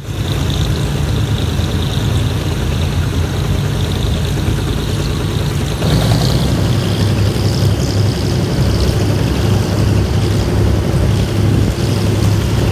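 Diesel-hauled passenger train heard from on board: a steady low engine drone with running rumble, growing louder about six seconds in.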